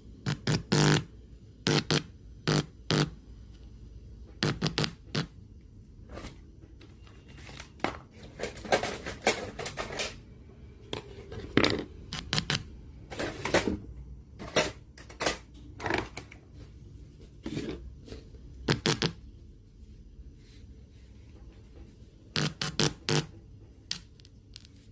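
A run of irregular sharp clicks and knocks, some in quick pairs and clusters, over a low steady hum.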